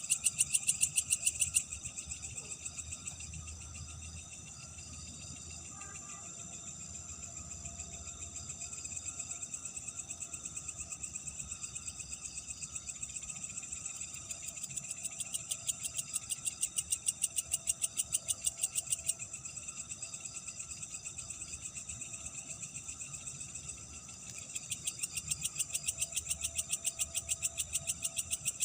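Night chorus of insects chirping in a fast, even pulse, with fainter frog-like calls lower down; the high chirping grows louder at the start, around the middle and again near the end.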